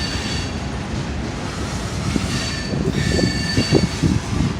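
Norfolk Southern freight train's cars rolling slowly with a steady low rumble as the train slows to a stop. Thin, high brake squeals come and go: at the start, then twice in the second half.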